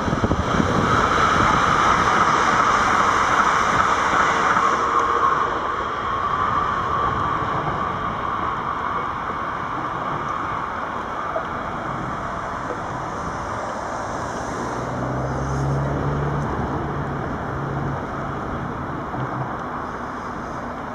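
An NS Sprinter electric train passing on the tracks, a steady rushing noise that is loudest in the first five seconds, with wind on the microphone. Later a car comes along the road with a low engine hum.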